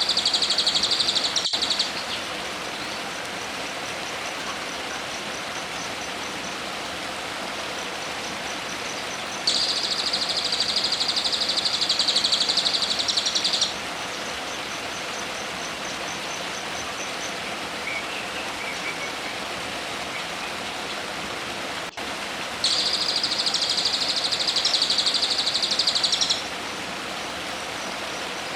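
A caged songbird's fast, high buzzing trill, given three times in bouts of about four seconds each. It sounds over a steady rushing hiss like running water, with faint quick ticking calls between the bouts.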